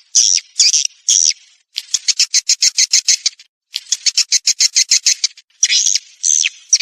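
Swiftlet lure-call recording of the kind played to draw swiftlets into a nesting house. Short high chirps, then two runs of rapid clicking trills at about nine a second, then chirps again near the end.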